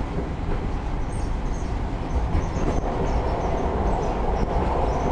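MARTA rapid-transit railcar running along the track, heard from inside the car: a steady rumble of wheels and running gear that grows a little louder a little past halfway.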